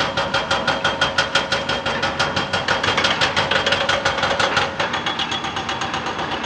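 Excavator-mounted hydraulic rock breaker hammering rapidly at about six or seven blows a second, over the excavator's diesel engine running. The blows turn fainter about five seconds in.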